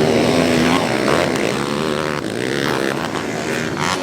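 Dirt bike engines revving, their pitch rising and falling, with more than one engine heard at once.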